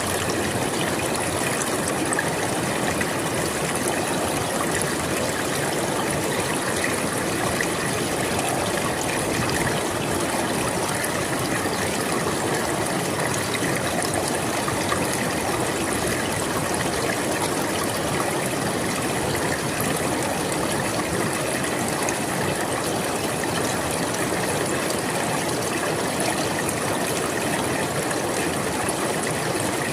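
River water flowing: a steady, even rush of moving water with no breaks or changes.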